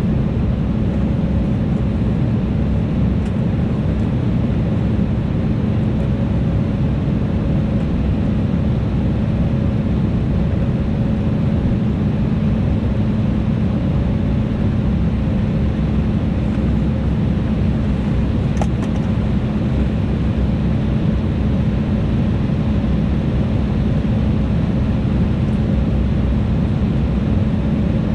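Steady cabin noise of an Embraer E175 airliner in descent, heard inside the cabin: the rush of airflow and the drone of its CF34 turbofan engines, with a steady low hum under it.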